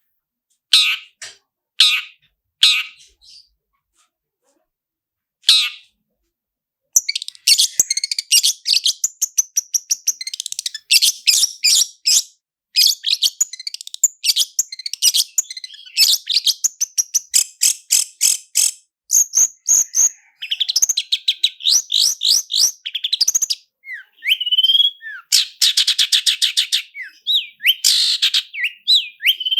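Long-tailed shrike (cendet) singing. A few separate sharp calls are followed, about a quarter of the way in, by a fast, dense run of rapid-fire notes and rolling trills. A few rising whistled notes come near the end.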